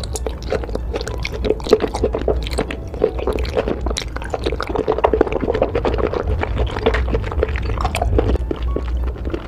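Wet chewing and slurping of octopus tentacles in thick spicy red sauce: rapid, irregular squelching clicks and smacks, several a second.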